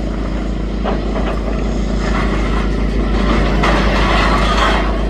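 Diesel engine of a demolition excavator running steadily, with a louder stretch of rushing, rattling noise starting about three and a half seconds in.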